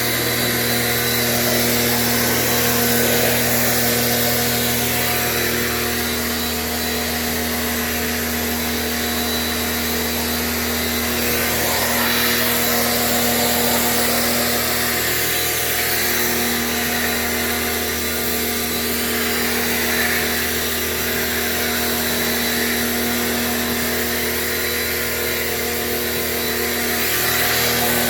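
A motor-driven machine running steadily with a hiss. Its low hum drops out and comes back a few times.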